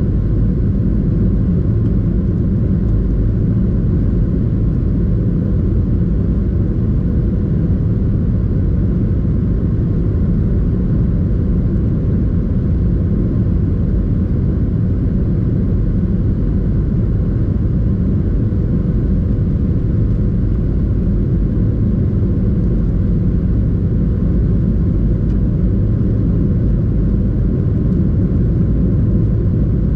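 Steady engine and airflow rumble inside the cabin of a Boeing 737-800, with a faint steady hum above it and no change in level.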